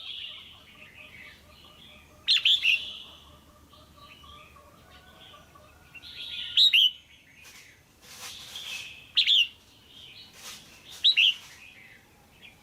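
Female red-whiskered bulbul calling: short, loud chirping calls repeated about every two to three seconds, four times, over a fainter background twitter.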